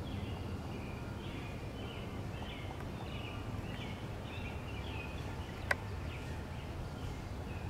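Birds calling in a run of short chirping phrases over a steady low outdoor rumble, with one sharp click about six seconds in.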